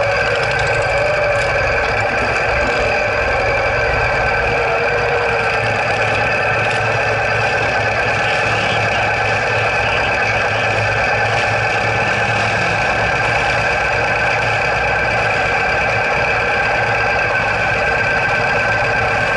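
Sidecar motorcycle engine idling steadily, heard close up, with no revving.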